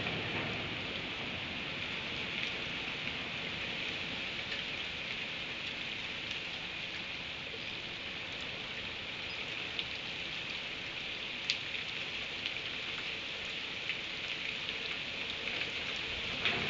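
Steady rain falling, an even hiss with a few scattered faint ticks of drops.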